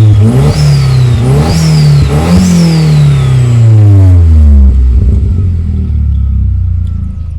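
Audi TT MK2 revved through a custom 3-inch decat downpipe and stainless full exhaust with a dual-exit sports back box: three quick blips in the first couple of seconds, then the revs fall away slowly and settle to idle about halfway through. A faint high whistle rises and falls with each blip.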